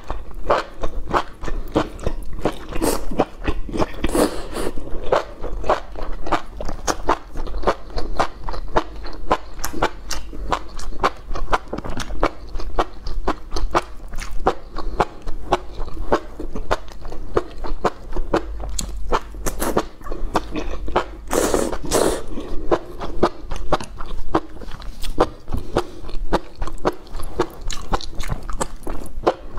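Close-miked chewing and slurping of enoki mushrooms in spicy chili oil: a dense run of quick, wet mouth clicks, with one louder rush about two-thirds of the way through.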